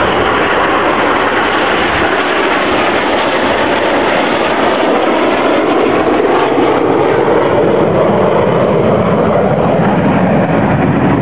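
Jet engines of a formation of BAE Hawk T1 display jets flying overhead: a loud, steady rushing noise whose pitch shifts slowly as the aircraft pass.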